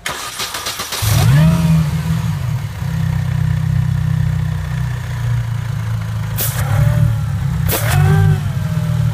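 First-generation MINI Cooper S supercharged 1.6-litre four-cylinder, fitted with an 80 mm BMW throttle body on a 3D-printed adapter, cranking and catching about a second in. The revs flare up and settle to a steady idle, then two quick throttle blips near the end.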